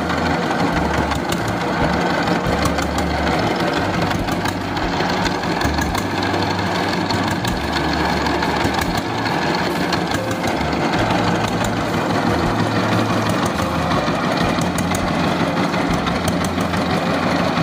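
Single-cylinder diesel engine of a shallow-tube-well water pump running steadily with a knocking diesel clatter.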